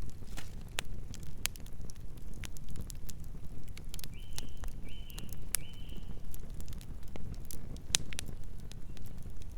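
Campfire crackling, with frequent sharp snaps and pops over a steady low rumble. About four to six seconds in, three short high chirps sound one after another.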